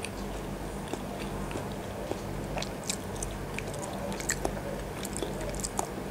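Close-miked mouth sounds of someone chewing incubated chicken embryo egg: wet, irregular clicks and smacks.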